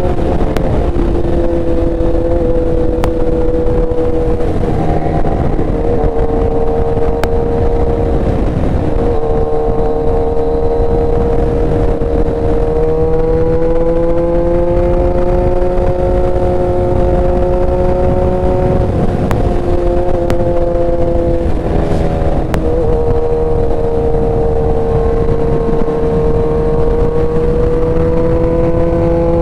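Motorcycle engine running at a steady cruise under heavy wind rush, its pitch dipping and climbing back a few times as the throttle changes.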